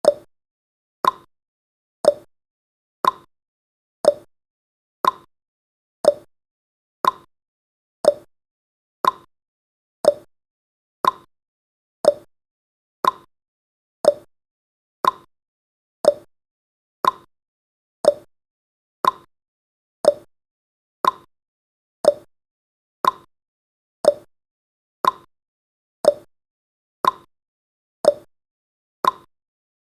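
Clock-ticking sound effect of a countdown timer: one sharp tick each second, alternating higher and lower like a tick-tock.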